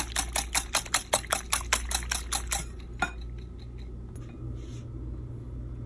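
Eggs being beaten in a bowl: a utensil clinking rapidly against the bowl's side at about six strokes a second, stopping about two and a half seconds in, with one more clink a moment later. A low steady hum runs underneath.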